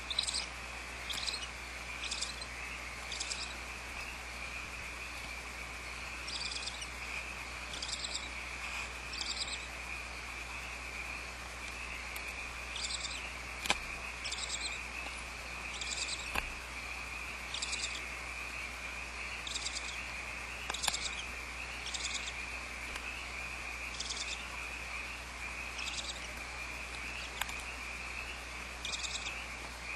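Barn owl hissing, snore-like calls, short and repeated every one to three seconds, over a steady high-pitched hum.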